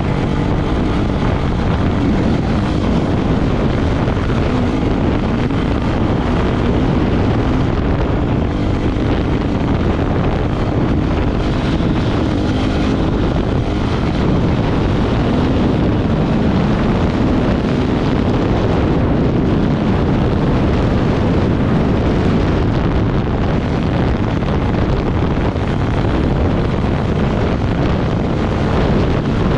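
Off-road motorcycle engine running steadily under load at speed, with heavy wind buffeting on the microphone.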